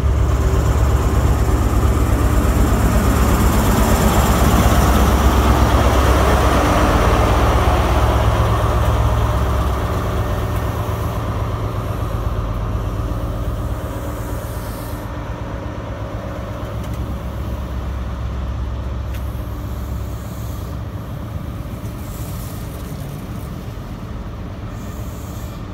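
High Speed Train running past at the platform: the Class 43 diesel power car's engine is loud and steady at first, then fades over the second half as the Mark 3 coaches roll by on the rails.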